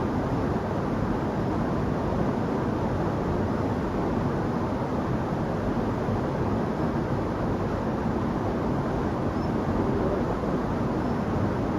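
Waterfall pouring steadily: an even rushing noise of falling water, heaviest in the low and middle range, with no change in level.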